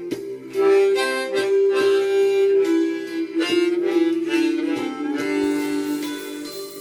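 Background music: a harmonica playing a melody of held notes over a steady rhythmic accompaniment.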